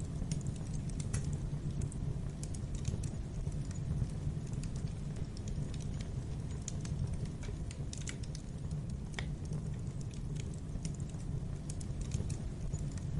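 Wood fire crackling in a fireplace: irregular sharp crackles and pops over a steady low rumble of the flames.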